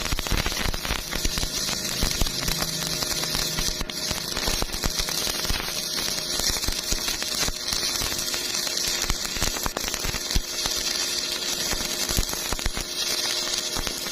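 Electric welding arc crackling and sizzling steadily, a dense run of sharp crackles over a constant hiss.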